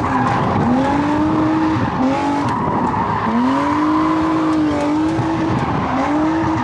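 A drift car's engine revving hard, its pitch climbing and holding high about four times in a row, over continuous tire screech as the car slides.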